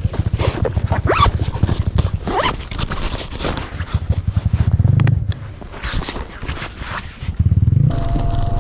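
Wind buffeting the microphone while riding an electric bike, a dense pulsing rumble that eases for a couple of seconds past the middle. Short sharp calls rise and fall about once a second over it.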